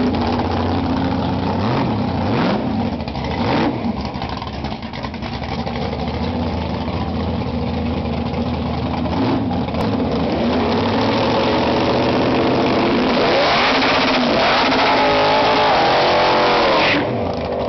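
Drag race car's engine running at a rough idle with a few quick throttle blips. Later it is held at high revs for several seconds, then cuts off suddenly near the end.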